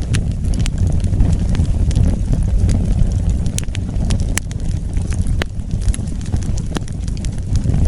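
Wood fire burning: a steady low rumble of flames with irregular sharp crackles and pops, about a dozen of them scattered through.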